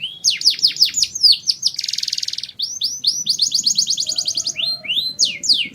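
Male canary singing a fast, loud song of rapid repeated down-slurred notes, with a buzzy trill about two seconds in and quick runs of repeated notes after it.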